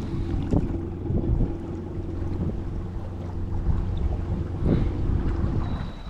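Electric trolling motor running steadily as the boat moves off a snag, its whine cutting out shortly before the end, with wind buffeting the microphone and a few knocks against the boat.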